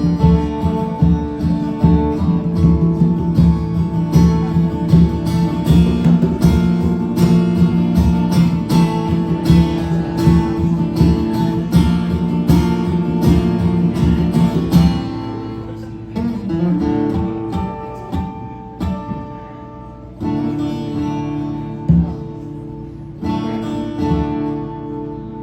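Live instrumental music led by strummed acoustic guitar, with an even beat. About fifteen seconds in it drops to a quieter, sparser passage.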